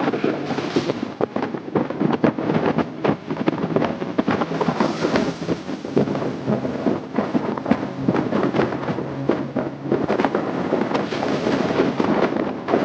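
Motorcycle engine running on the move, a steady low drone overlaid with dense, irregular crackling pops throughout.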